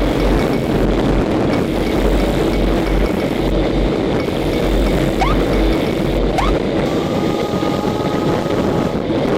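Wind rushing and buffeting over a helmet-mounted microphone while riding a Honda ST1300 motorcycle at speed, with the engine running steadily underneath.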